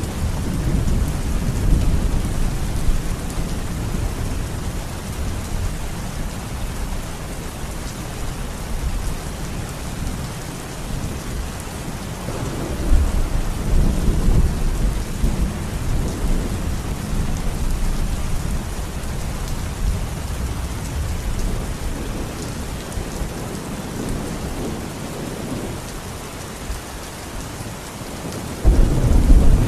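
Steady heavy rain with rolling thunder. Deep rumbles swell in waves: one near the start, a louder one about halfway through, and a sudden loud one near the end.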